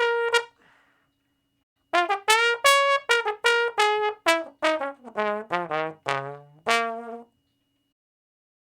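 Tuba playing a short note, then after a pause a quick run of short detached notes stepping downward in pitch, ending on a slightly longer, higher note.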